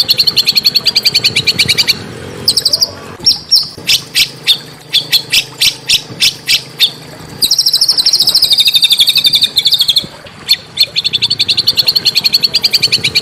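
A small songbird singing fast, harsh trills of sharp, rapidly repeated notes, each trill lasting about two seconds, with single sharp chips spaced between the trills. This is the rapid 'tembakan' (shot-like) song used as masteran song for white-rumped shamas.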